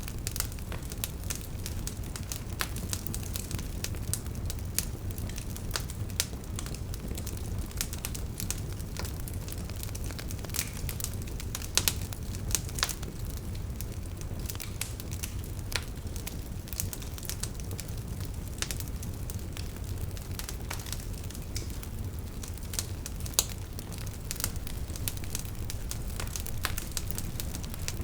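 Wood fire with burning logs crackling: irregular sharp pops and snaps over a steady low rumble.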